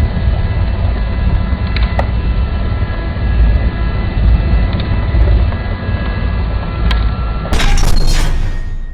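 Blizzard wind buffeting the microphone, a heavy, steady rumble with a few faint steady high tones over it. Near the end it changes abruptly to a brighter rushing hiss of wind.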